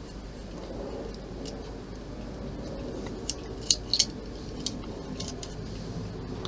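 A handful of light, sharp clicks and taps of small plastic model parts and hand tools being handled, bunched between about three and five seconds in, the two loudest close together, over a steady low hum.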